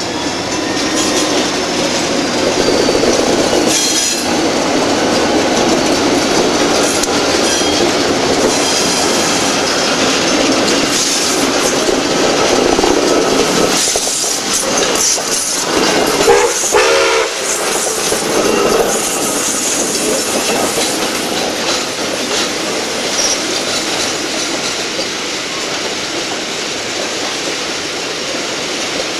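Train running along the track, its wheels clattering over the rail joints in a loud, steady din, with a brief pitched tone from the train about halfway through.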